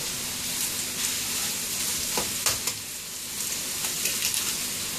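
Steady sizzle of sliced pork, shrimp and fish cake stir-frying in oil in a wok, with a few sharp clicks a little over two seconds in.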